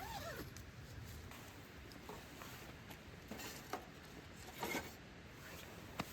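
Faint handling noise: scattered soft rustles and small clicks, with a short falling squeak at the very start.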